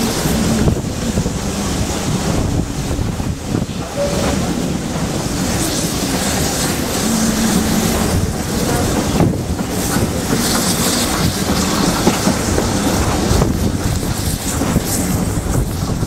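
Passenger carriages rolling over the rails behind steam locomotive S160 5197, heard from an open carriage window, with wind rumbling on the microphone.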